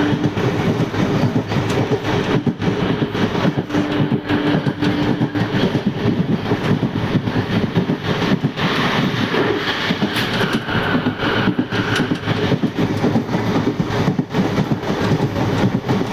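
Passenger train running on the line, wheels clattering over the track with a constant rush of running noise. A steady low tone briefly joins the clatter about four seconds in.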